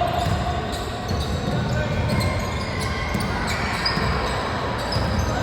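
Basketball game sounds: a basketball bouncing on the court amid short knocks and squeaks, with people's voices calling out.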